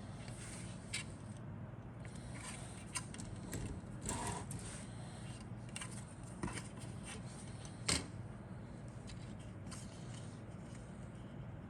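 Plastic model kit parts and bags being handled: scattered light clicks and short rustles, the sharpest click about eight seconds in, over a low steady hum.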